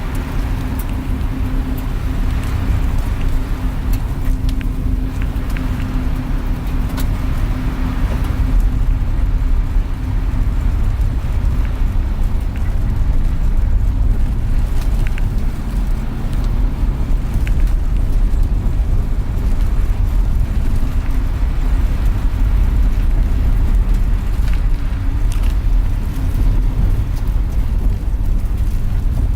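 Van driving along a road, heard from inside the cabin: a steady low rumble of engine and road noise, with a humming tone that fades out about nine seconds in.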